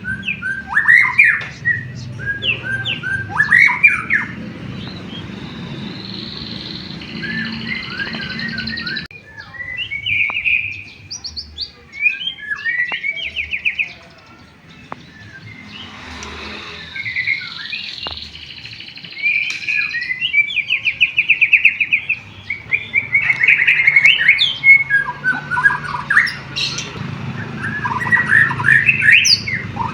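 White-rumped shama (murai batu) singing a long, varied song of whistles, fast trills and quick chirps, with canary-like rolling phrases, over a steady low background hum.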